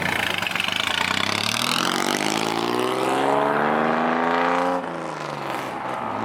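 Car engine revving hard as the car accelerates away, its pitch climbing steadily for about three seconds, then dropping suddenly near the end and running on at a lower pitch.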